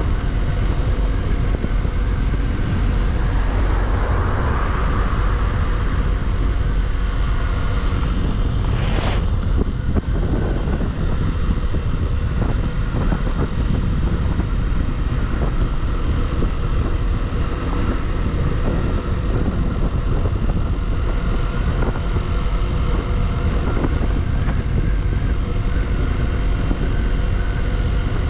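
Single-cylinder Bajaj Pulsar motorcycle engine running steadily while riding at road speed, with wind on the microphone.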